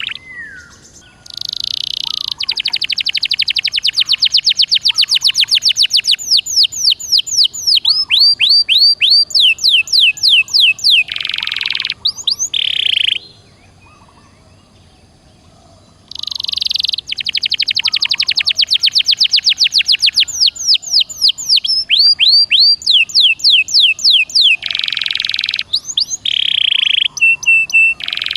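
Domestic canary singing in the loud, driving 'gacor' style: two long song phrases of fast trills and rapid sweeping notes, each about twelve seconds, with a pause of about three seconds between them.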